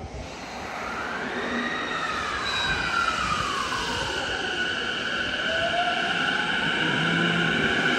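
Electric commuter train pulling away, its VVVF inverter whining in a pitch that rises and falls, then climbs again and settles into steady high tones over the rumble of the wheels. It grows louder as the train gathers speed.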